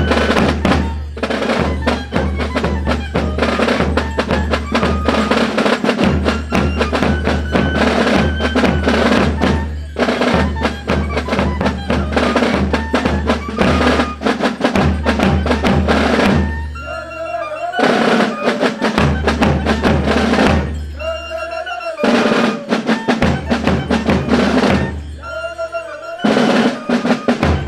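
Marching drum-and-fife band playing a march: snare drum rolls over a steady bass drum beat, with high fife notes above. The drumming breaks off briefly three times in the second half.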